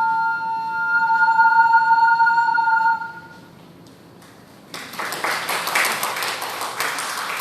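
Ceramic triple ocarina holding a final two-note chord, both voices sounding at once, which stops about three seconds in. After a brief lull, applause starts suddenly about five seconds in and continues.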